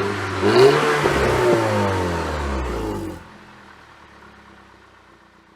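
VW Golf mk6 GTI's turbocharged 2.0-litre four-cylinder through a Remus sports exhaust, loud, its note rising briefly and then falling steadily in pitch for about two seconds before dropping away about three seconds in to a faint, fading sound.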